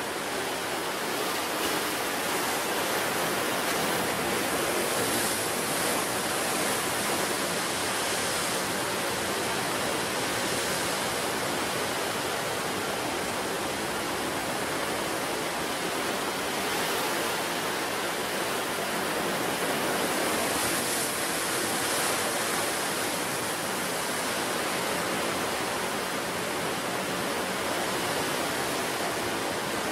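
Sea surf washing onto the shore in a steady rush, swelling a little now and then as waves break.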